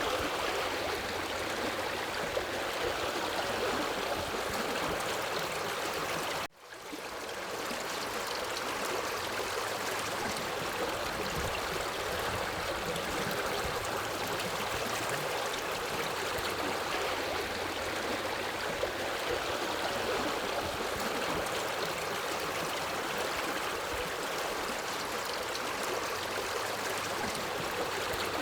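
Steady rushing and gurgling of a forest river. About six seconds in the sound cuts out almost completely for an instant, then fades back in over about a second.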